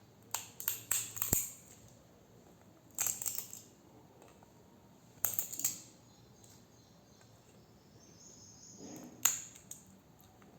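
3D-printed plastic support material being snapped and peeled off a printed model: short bursts of sharp clicking and cracking, four times, with the last a single louder snap near the end.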